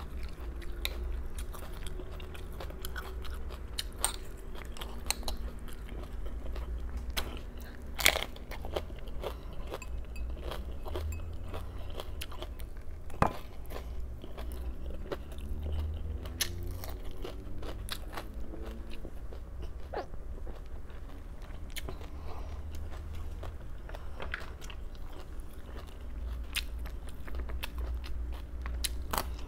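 Close-miked biting and chewing of crunchy raw vegetables: a steady run of sharp crunches and cracks as the teeth break through them, with a few louder snaps about 8 and 13 seconds in.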